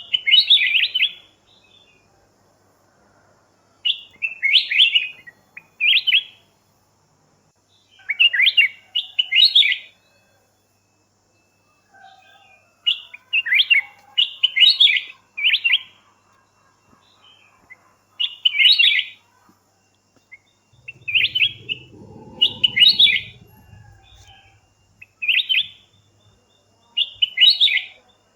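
Bird chirping in short bursts of quick notes, one or two phrases every couple of seconds, with gaps between groups. A brief low rumble comes in about two-thirds of the way through.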